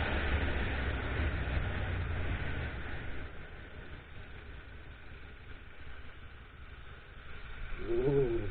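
Motorcycle engine running with road and wind noise, loud for the first few seconds, then settling lower and quieter. Near the end comes a brief engine rev that rises then falls in pitch.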